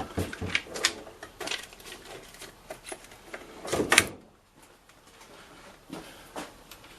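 Clicks and knocks of metal tools and parts being handled during milling machine setup, with a louder, longer clatter about four seconds in.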